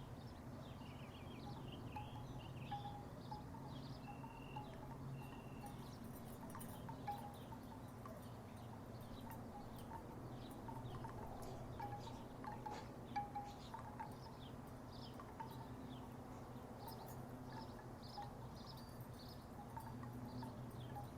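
Wooden tiki wind chimes knocking together irregularly, scattered short clacking notes, over a faint steady low hum.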